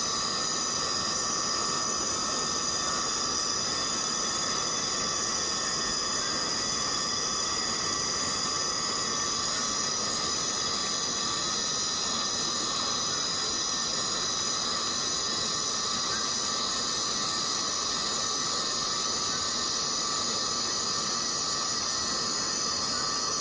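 Steady rain falling on tropical rainforest, with a constant layer of high, unchanging tones from the jungle's insects over it.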